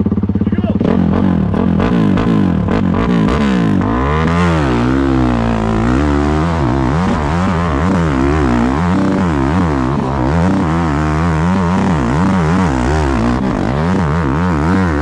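Dirt bike engine running hard under load on a hill climb. For about the first four seconds it holds a fairly steady, pulsing note, then its pitch rises and falls again and again as the throttle is worked.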